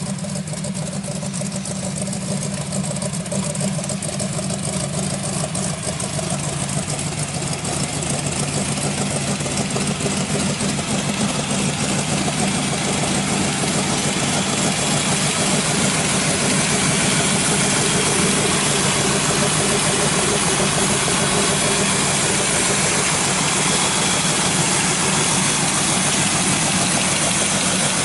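A 383 stroker small-block V8 idling steadily, getting gradually louder over the first fifteen seconds or so, then holding even.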